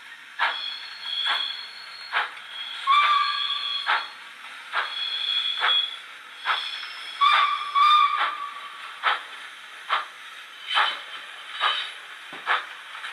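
Sound decoder of a Rapido Hunslet 0-6-0 saddle tank model locomotive playing steam-engine sounds: steady chuffs about one a second, with whistle toots about three seconds in and twice more near the middle, heard through the model's small onboard speaker.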